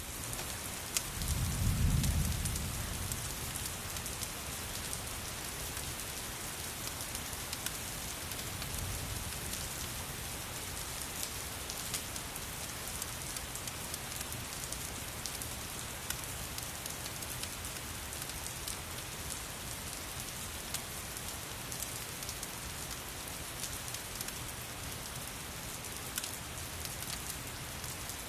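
Steady rain hissing, with scattered sharp ticks of drops. A low rumble swells about two seconds in, and a fainter one comes near nine seconds.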